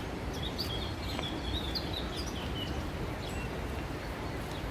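Small birds chirping in short, high calls, most of them in the first half, over a steady low outdoor background noise.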